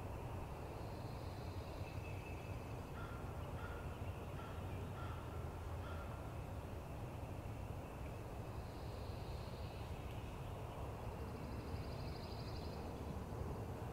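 Wild turkey calling at a distance: a run of about six short, evenly pitched notes a few seconds in, over a steady low rumble. Faint high bird calls come and go, one of them a quick trill near the end.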